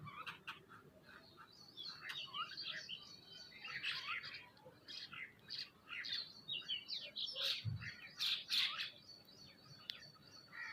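Several birds chirping, with many short calls overlapping and coming thickest around the middle and near the end. A brief low thud falls just before the loudest chirps.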